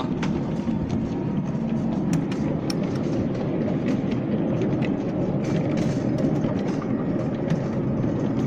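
Small tourist train running along its track, heard from aboard: a steady low rumble of wheels on rail with a few scattered clicks.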